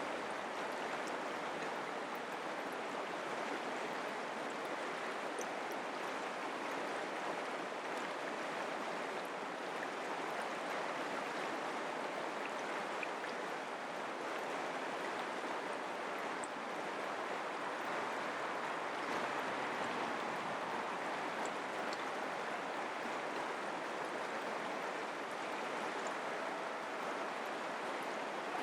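Mountain creek flowing: a steady rush and babble of running water.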